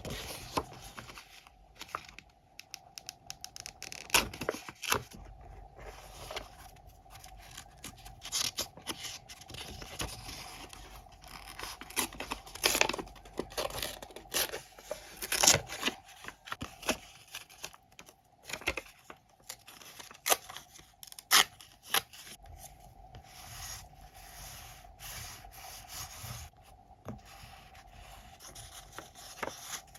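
Close-up scrapbooking handwork on paper: paper being scraped, rubbed and torn, with scissors snipping. The sharp clicks and rustles come at irregular moments throughout, and the loudest fall around the middle.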